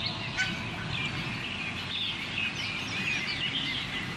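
Many small birds chirping and twittering over a steady low outdoor background noise.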